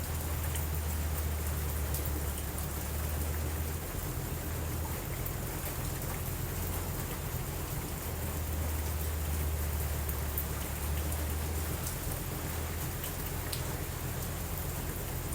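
Steady rain falling, with a continuous low rumble underneath and a few faint, sharp crackles from a fireplace.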